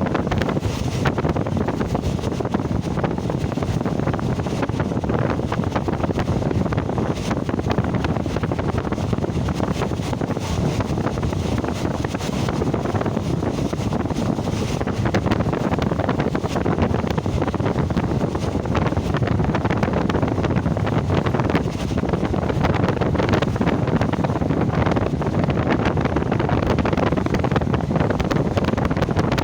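Steady rush of wind buffeting the microphone over the running noise of a moving train.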